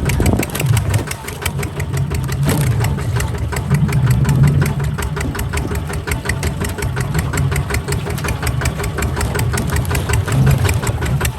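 Single-cylinder diesel engine of a Kubota RT140 DI two-wheel walking tractor running steadily with a rapid, even firing beat.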